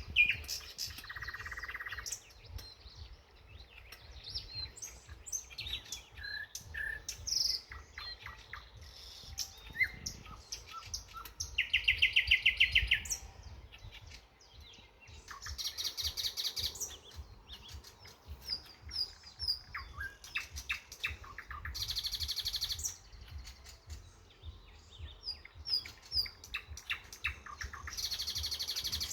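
A chorus of several songbirds singing and calling, with many short chirps and whistles and a few loud, fast trills.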